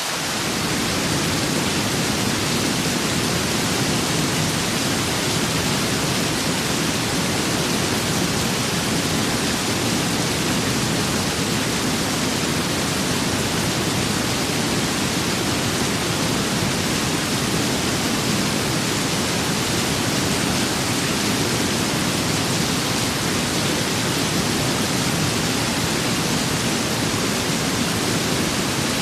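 Rain and wind blending into a steady, even hiss with no separate drops, gusts or thunder. The deeper part of the noise fills in right at the start, then holds unchanged.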